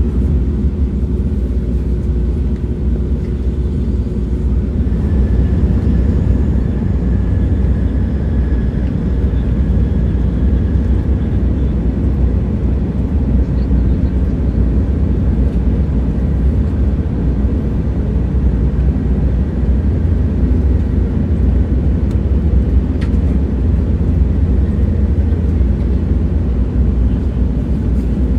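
Train running at steady speed: a continuous deep rumble and rolling noise, with a faint high whine for a few seconds near the start.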